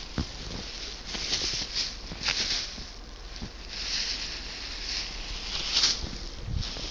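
Deep snow crunching and swishing in a few short scuffs as a small child moves and kicks through it.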